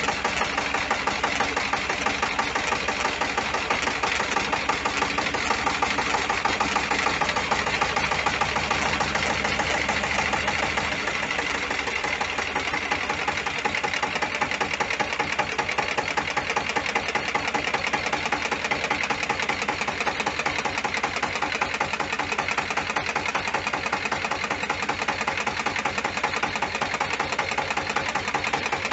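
Engine idling with a fast, clear, ringing rattle, an extraneous mechanical noise from one side of the engine that appears only when it runs and not when it is turned over by hand. A low hum under it drops away about eleven seconds in.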